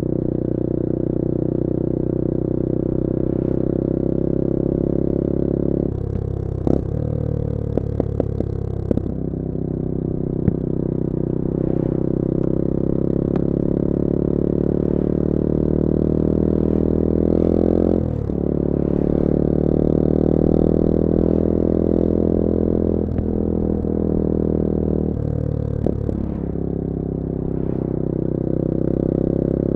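A 2021 Bullit Hero 250's CF Moto-built 250cc four-stroke engine running under way. The engine note climbs slowly, then drops sharply about eighteen seconds in, like a gear change, with shorter dips in the note near the start and near the end. A few sharp clicks come early on, between about six and nine seconds.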